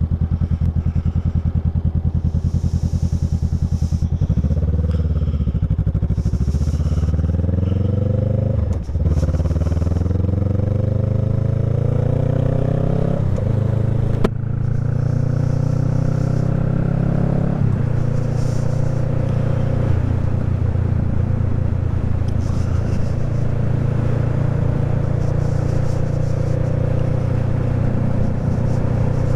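Honda Rebel 500 parallel-twin engine through an aftermarket exhaust, running low and steady, then pulling away. The pitch rises through the gears with three upshifts before settling into a steady cruise.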